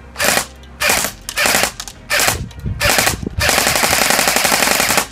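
Airsoft Honey Badger electric rifle firing on full auto: four short bursts, then one long burst of nearly two seconds that stops near the end.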